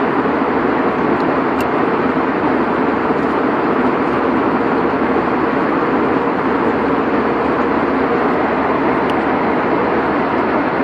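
Steady drone of an airliner cabin in flight: engine and air-rush noise, even and unbroken.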